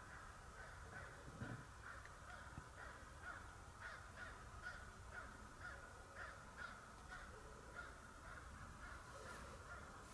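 Faint, distant bird calls repeated in a steady series, about two a second.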